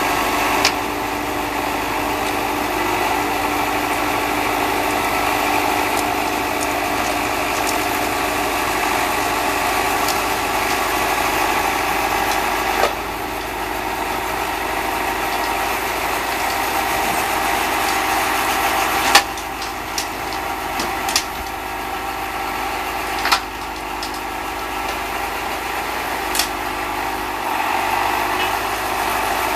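Case David Brown 1212 tractor engine running steadily, with an Erskine snowblower fitted, broken by a few short sharp clacks.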